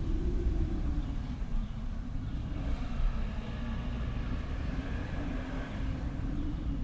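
Snowstorm wind howling over a deep, steady rumble. The howl sinks in pitch about a second in and rises again near the end, and a higher hiss of wind swells in the middle.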